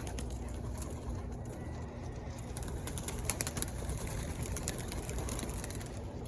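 Racing pigeons cooing, a steady low murmur, with a few faint clicks near the start and again about three seconds in.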